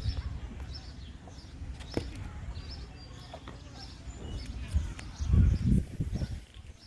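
A bird chirping over and over, about two short high chirps a second, over a low rumble that grows loudest about five seconds in.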